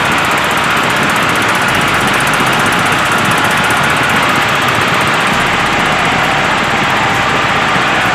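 Small motor of a homemade model tractor running steadily, an even, loud mechanical whir with a rattling edge.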